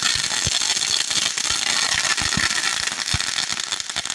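Consumer firework crackling: a steady hiss packed with rapid small pops and cracks.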